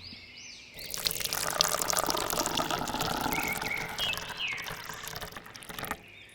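Water pouring and splashing, starting about a second in and cutting off abruptly near the end.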